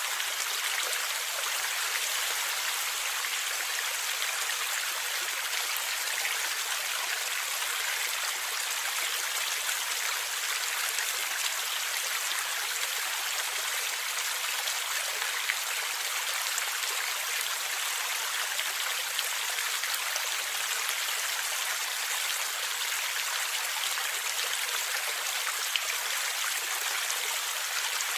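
Forest stream flowing and gurgling steadily, a constant hiss of running water with a few brief ticks.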